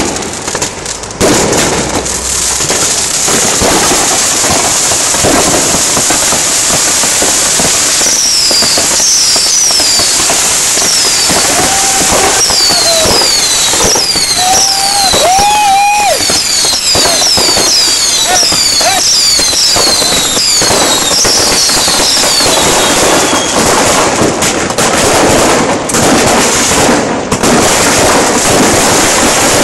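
Dense New Year's Eve fireworks: a continuous barrage of firecracker bangs and crackling. Through the middle of the stretch many high whistles fall in pitch one after another, and a few lower, wavering whistles come through as well.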